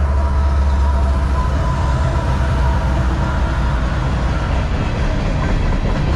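Two CSX diesel-electric locomotives working as mid-train distributed power units pass close by, their engines giving a heavy, steady rumble. Empty coal hopper cars roll on behind them on the rails.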